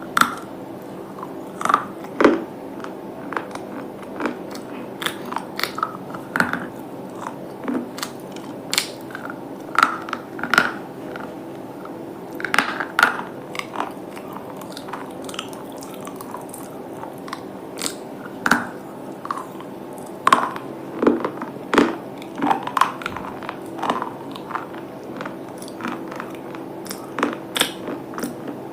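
A person biting and chewing crunchy slate pieces: irregular sharp crunches and cracks, a few a second, with pauses between bites, over a faint steady hum.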